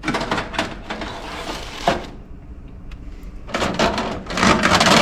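Plastic food-dehydrator trays being handled and slid into place: rustling and clattering with a sharp click about two seconds in, then louder clatter near the end.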